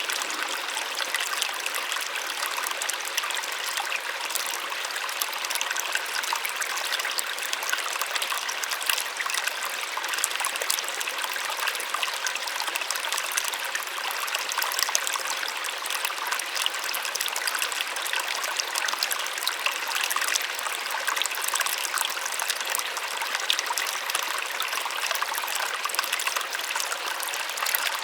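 A small waterfall splashing steadily, a light, hissing rush of water with little low rumble.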